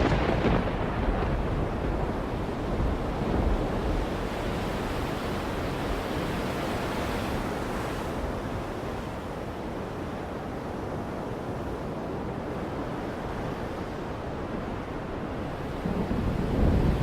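Steady rushing noise of surf, swelling briefly at the start and again near the end.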